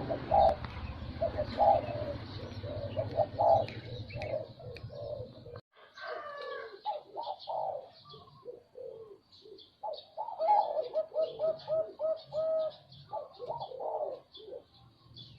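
Zebra dove cooing: phrases of short, soft notes with a quick even run of them about two-thirds of the way through. Faint high chirps sound throughout, and a low steady hum stops abruptly about five and a half seconds in.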